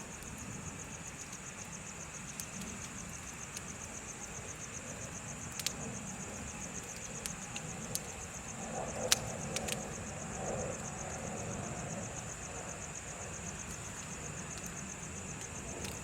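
Bonfire crackling with scattered sharp pops, the loudest about nine seconds in, over a steady pulsing trill of crickets and a low rumble.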